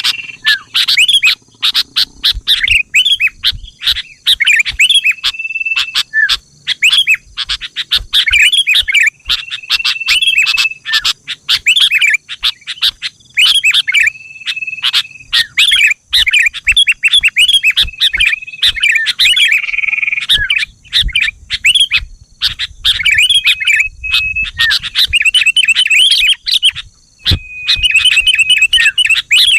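Sooty-headed bulbul (kutilang) singing continuously: quick, bubbly chirping phrases, with a short held whistled note every few seconds.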